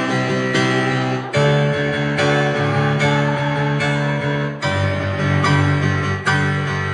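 Keyboard music: held chords that change three times, about a second in, past the middle and near the end.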